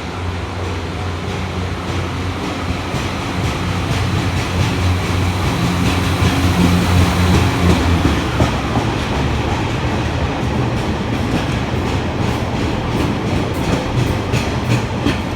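Two coupled class 143 Pacer diesel railbuses moving off, engines humming low, then a rapid clunking of wheels on the track that builds over the second half. The clunking is the sign of worn wheels, which the spotter says need replacing.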